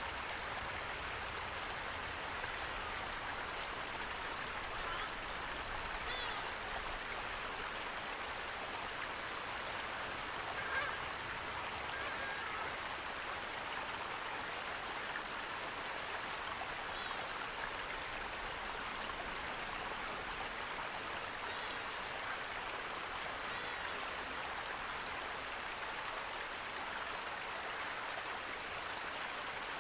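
Running water rushing steadily, an even hiss with no change in level. A few faint short high sounds come through it, and one brief tick about eleven seconds in.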